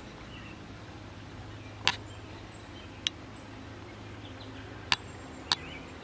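Steady low buzzing hum of a honeybee swarm, broken by a few sharp clicks about two, three, five and five and a half seconds in.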